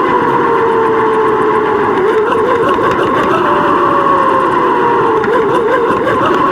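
Steady wind and riding noise on a GoPro carried on a moving bicycle, with a wavering hum that drifts slowly lower in pitch.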